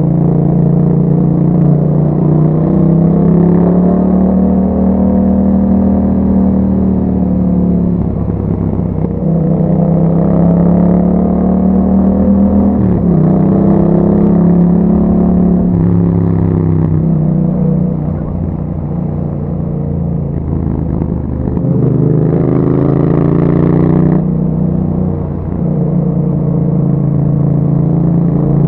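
2021 Yamaha MT-07's parallel-twin engine through an Akrapovic exhaust with dB-killer inserts, ridden on the road: the engine note climbs and falls again and again as the bike accelerates, shifts and eases off. About 22 seconds in comes a harder, brighter pull that cuts off suddenly two seconds later.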